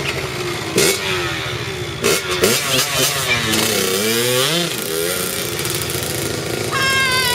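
Small dirt bike engine revving, its pitch rising and falling several times, with a few sharp knocks in the first couple of seconds.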